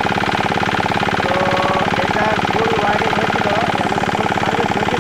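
Small 170-type diesel engine running steadily at a constant speed, with a fast, even chugging beat.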